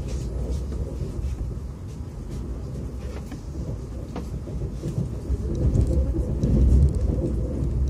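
Running noise of an electric commuter train heard from inside the carriage: a steady low rumble of wheels on rails, growing a little louder about two-thirds of the way through.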